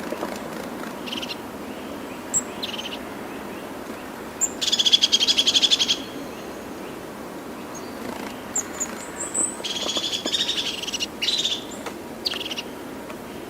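Birds calling: short high chirps here and there, and two loud, rapid trills of about a second and a half each, one about five seconds in and one about ten seconds in, over steady background noise.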